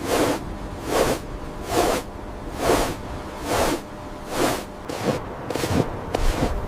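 Footsteps crunching through snow at a steady walking pace, about one step a second, quickening and turning uneven near the end.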